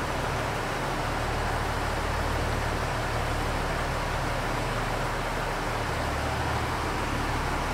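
Steady hum and hiss of a stationary diesel express train, a KiHa 85 railcar, idling while it stands stopped at the platform.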